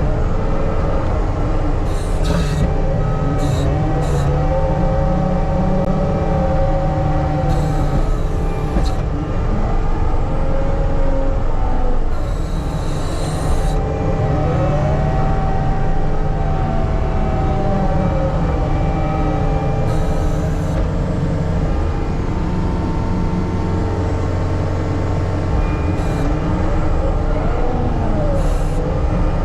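Diesel engine of heavy earthmoving equipment running under load, with a hydraulic whine that rises and falls as the machine works. Short bursts of higher, noisier sound come now and then.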